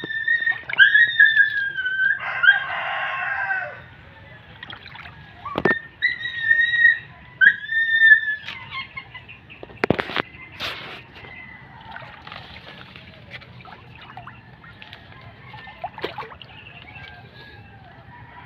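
Birds calling: a run of short, high calls with falling tails and a rasping stretch in the first half, then a few sharp knocks and a fainter background.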